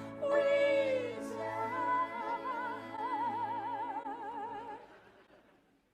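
Several stage voices singing a held chord with wide vibrato, with musical-theatre accompaniment, fading away about five seconds in.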